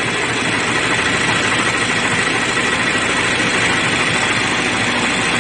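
2013 Chevy Malibu's 2.5-litre four-cylinder engine idling steadily, heard close up under the hood.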